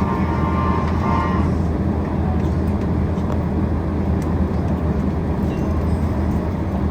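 Steady low rumble heard inside the cabin of a Boeing 767-400ER as it taxis: the jet engines at low thrust with cabin air noise, with faint steady tones in the first second or so.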